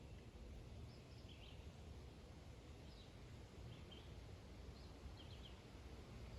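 Faint outdoor ambience with a low, steady rumble and a small bird chirping briefly, about every second or so.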